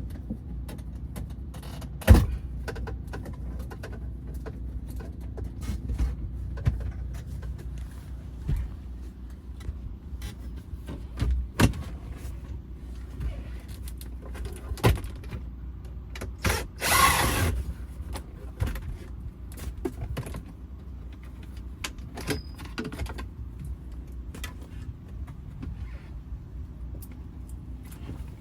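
Semi truck's engine idling steadily, with scattered clicks and knocks of handling in the cab. There is one sharp knock about two seconds in and a short hiss a little past the middle.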